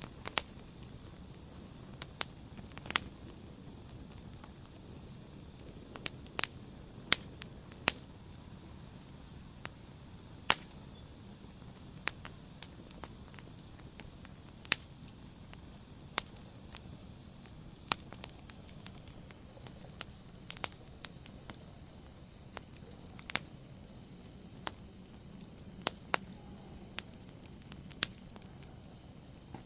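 Wood fire burning in a fireplace: a low steady hiss with sharp, irregular crackles and pops from the logs, several of them much louder than the rest.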